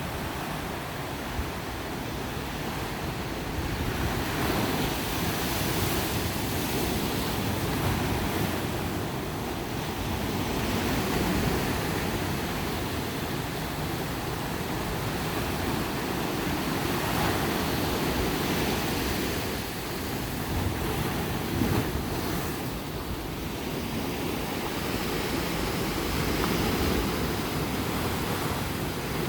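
Ocean surf breaking and washing on a beach, a continuous rush that swells and eases every several seconds, with some wind on the microphone.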